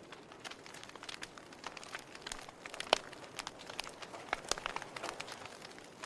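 Fire in a fireplace crackling: irregular pops and snaps over a soft hiss, with one sharp pop about three seconds in louder than the rest.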